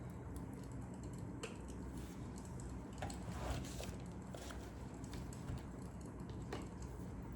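Fire crackling: irregular small pops and snaps over a low steady rumble, with a denser run of crackles about three to four seconds in.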